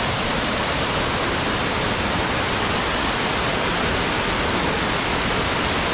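Loud, steady rush of Dry Falls, a large waterfall heard up close, falling water with no breaks or changes.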